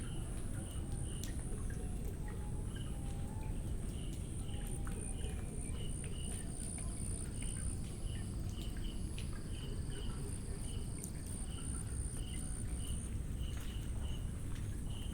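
Tropical insects keep up a steady high-pitched buzzing chorus, over which a small animal repeats short chirps about once or twice a second. Scattered faint ticks and a steady low rumble lie underneath.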